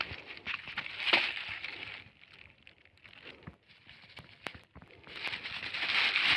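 Plastic litter crackling and rustling as it is handled and pulled from the riverbank, with scattered sharp clicks; the loudest crinkling swells up near the end.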